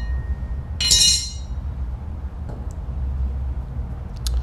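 Metal parts or hand tools clinking once with a short ring about a second in, then a brief click near the end, over a steady low hum.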